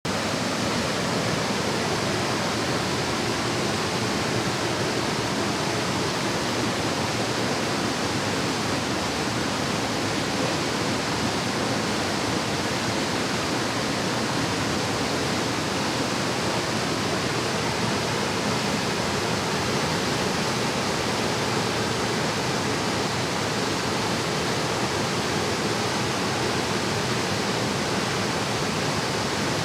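Mountain valley stream, its water flowing in a steady, unbroken rush.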